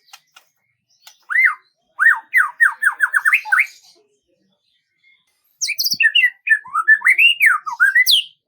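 A songbird singing in two phrases: first a quick run of about eight falling slurred notes, then, after a short pause, a longer warbling phrase of notes that rise and fall.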